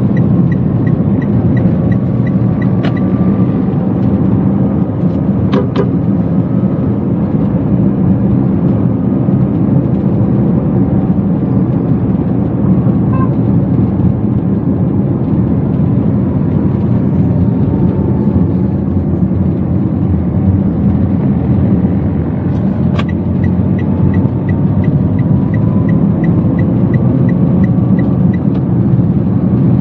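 Inside a moving Toyota Wigo: a steady rumble of engine and road noise, with the turn-signal indicator ticking evenly at the start and again for about five seconds later on, and a few sharp clicks.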